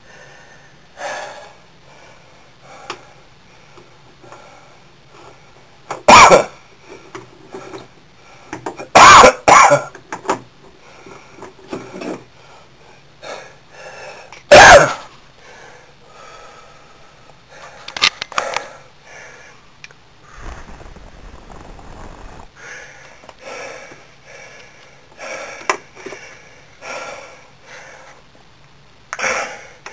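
A person's breath in short, noisy bursts. Four of them are loud: one about six seconds in, two close together around nine seconds, and one near fourteen seconds. Many fainter puffs come between them.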